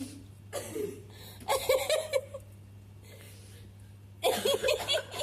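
People chuckling and laughing under their breath in three short bursts, with a steady low electrical hum underneath.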